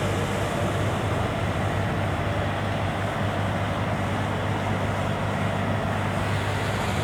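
Steady engine and road-traffic drone: a constant low hum under an even rushing wash, with no breaks or sudden sounds.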